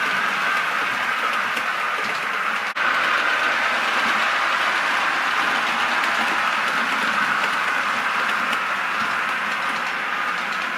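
Model Blue Pullman diesel train running along the track, a steady rumble and whir of wheels and motor, briefly cut off for an instant about a quarter of the way in.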